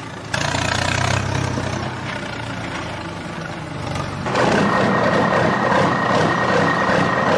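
Heavy truck engine running at idle, getting clearly louder about four seconds in, with a steady high whine joining it from then on.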